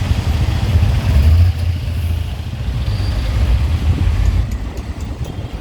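City road traffic heard from a moving bike, under a heavy, uneven low rumble.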